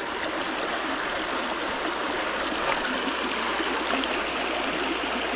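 Small mountain creek running over a riffle and rocks: a steady rush of flowing water.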